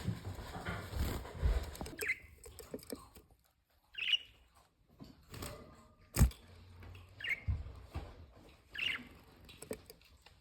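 Pet parrots giving short, high chirps every second or two, four in all, with a sharp knock about six seconds in and some low rustling near the start.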